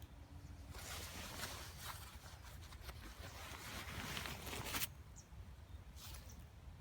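Rustling and crackling handling noise, starting about a second in and stopping sharply near five seconds, over a low steady hum.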